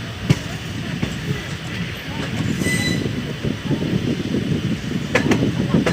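Passenger train running on the rails: a steady low rumble and clatter of the wheels and coaches that grows louder after about two seconds. There is a sharp knock near the start, a brief high squeal about halfway, and a couple more knocks near the end.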